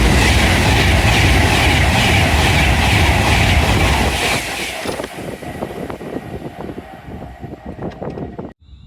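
Train passing at speed: a loud rush of wheels on rail that fades after about five seconds into a run of wheel clicks over the rail joints, then cuts off suddenly near the end.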